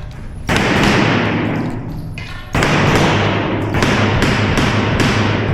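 Pistol shots fired during a USPSA stage, muffled and drawn out by the recording: two spaced shots, then a quicker string of about five at roughly two to three a second.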